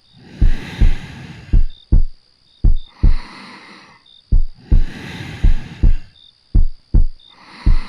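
Slow heartbeat heard close up as if through a chest, each beat a soft double thump (lub-dub) about once a second. Slow, soft breaths swell in and out over it, about every one and a half to two seconds.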